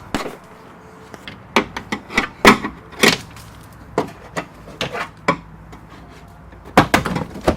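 An irregular series of sharp metallic knocks and clunks as a Nissan Patrol Y60's door is worked loose from its hinges. The loudest knocks fall about two and a half and three seconds in, with a quick cluster near the end.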